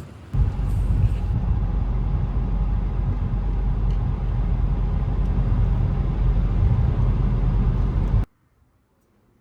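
Car running, a loud steady low rumble that starts suddenly about half a second in and cuts off abruptly about a second before the end.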